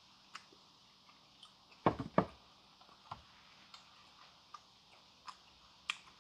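Light, scattered clicks and pops about once or twice a second, with a short louder clatter of a few clicks about two seconds in.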